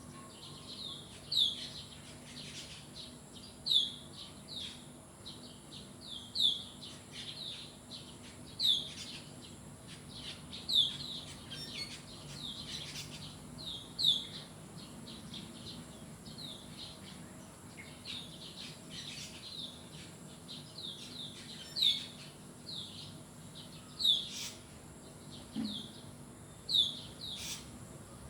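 Birds chirping: a loud, short, downward-sliding chirp repeated about every two to three seconds, with quieter chirps from other birds in between.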